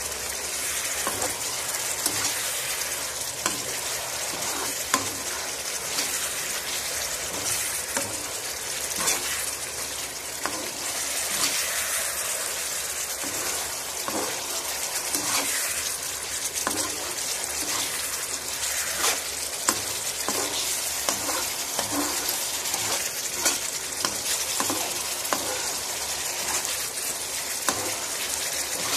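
Chicken in a thick coconut-paste sauce sizzling in a nonstick wok over low heat, with a spatula stirring and scraping through it, making scattered light clicks against the pan.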